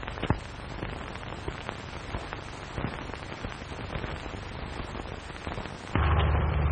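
Old optical film soundtrack hiss and crackle, with scattered faint clicks. About six seconds in, a louder, low, steady rumble cuts in abruptly.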